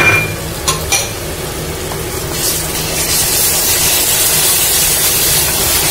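Sliced onions and ginger-garlic paste frying in hot oil in an aluminium pressure cooker, sizzling, with a wooden spatula knocking against the pot three times near the start. The sizzle gets louder and brighter about two and a half seconds in as the paste is stirred into the oil, over a steady low hum.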